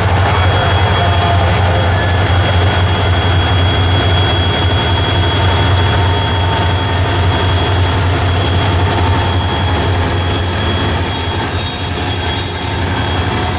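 Freight train rolling past, wheels on the rails with a steady thin high squeal over a steady low rumble.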